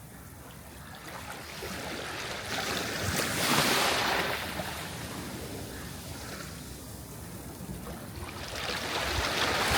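Sea waves breaking on a shore: one wave swells and crashes about three and a half seconds in, the wash ebbs, and the next wave builds and breaks near the end.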